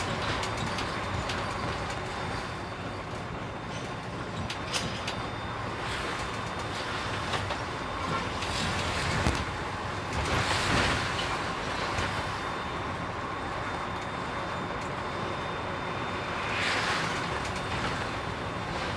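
Container truck driving on the road: steady engine and road rumble with a few rattling clicks, and two louder rushing swells about ten and seventeen seconds in.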